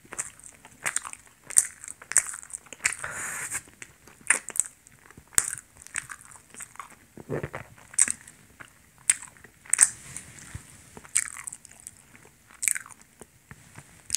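A person biting and chewing a piece of donut: short, sharp, irregular mouth clicks and smacks, about one or two a second.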